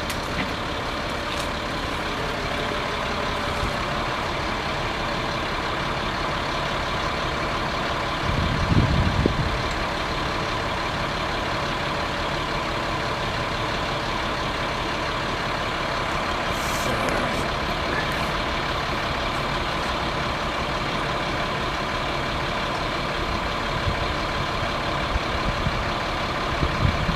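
Bucket truck engine running steadily, with a brief louder low rumble about eight seconds in.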